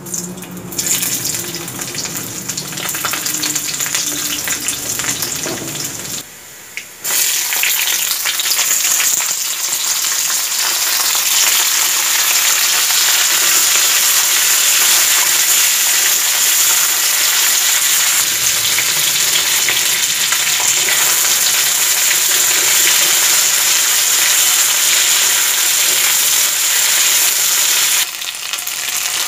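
Vegetables frying in hot oil in a wok, a loud steady sizzle as chopped garlic and then chopped flat beans are added. The sizzle breaks off briefly about six seconds in, then runs strong and even until it drops near the end.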